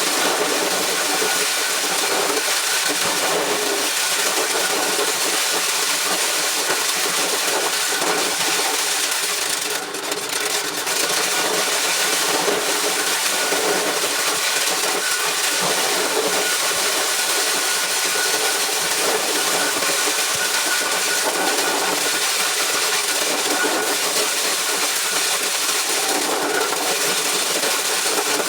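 Motor-driven corn sheller running steadily. The noise dips briefly about ten seconds in, then carries on as before.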